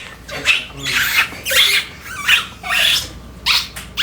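A child giggling in a run of short, breathy bursts, about one every half second.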